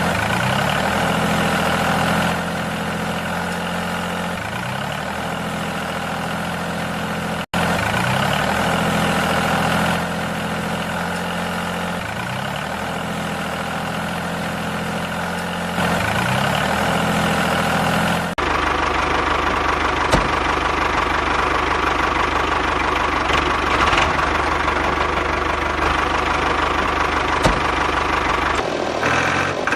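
A steady engine running like an idling tractor, with a low, even chug. It cuts off abruptly about seven seconds in and again about eighteen seconds in, and after the second cut it carries on with a changed tone.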